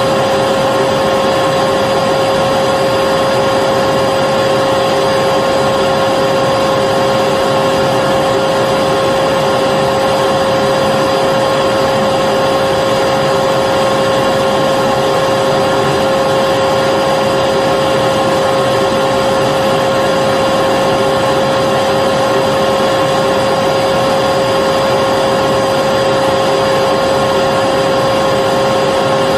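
Vacuum cleaner running steadily at a constant speed: an even rushing noise with a fixed whine over it, never changing in pitch or level.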